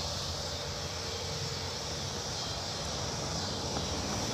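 Outdoor ambience: a steady low rumble of distant road traffic under a high, even insect drone.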